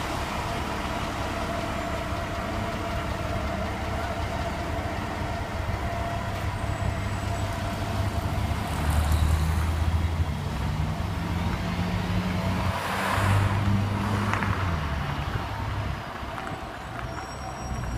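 V8 engine of a 1960s Chrysler Newport running low and steady as the car moves off slowly in street traffic, swelling louder twice as it pulls away.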